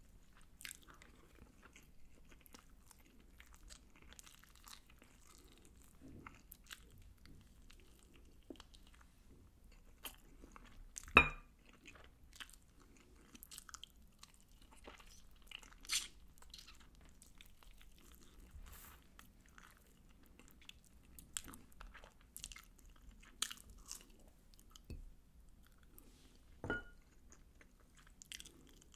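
Chewing and biting of sweet-sauced Korean fried chicken (yangnyeom chicken) eaten with rice, close to the microphone. Small wet mouth clicks run throughout: the sticky sauce and soft, mushy rice make the lips smack as they part. One sharp click about eleven seconds in is the loudest sound.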